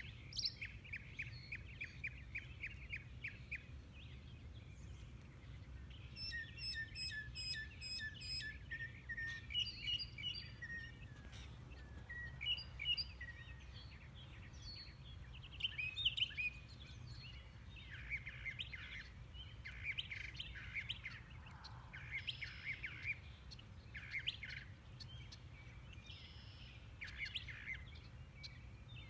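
Small songbirds calling and singing: a quick trill near the start, then runs of repeated chirps and sharp calls throughout, over a steady low background rumble.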